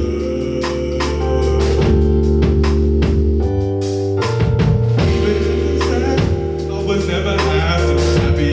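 Live band playing an instrumental passage: drum kit keeping a steady beat over sustained bass and organ-like keyboard chords, with guitar.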